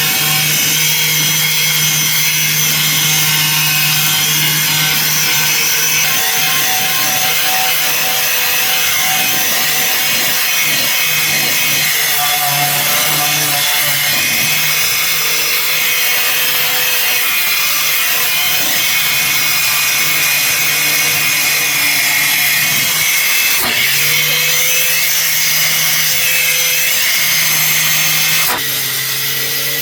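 A power tool running steadily under load, with a constant low hum under a loud, dense hiss. It falters briefly about three-quarters of the way through and drops in level near the end.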